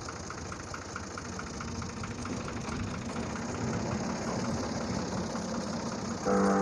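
An engine running steadily at idle, with music coming in suddenly near the end.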